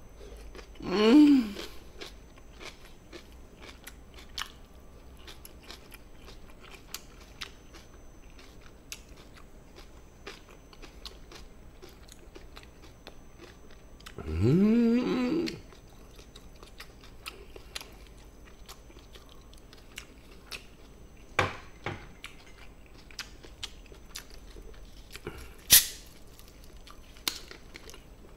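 A person chewing a mouthful of gochujang-sauced chicken, with many faint wet mouth clicks, and two short hummed vocal sounds, about a second in and again around the middle, the second rising in pitch. A few sharper clicks and knocks come near the end.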